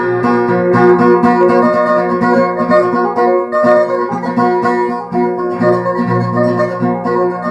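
Acoustic guitar played solo, fingerpicked with quick, closely spaced notes over a bass line, during an instrumental break in a folk ballad.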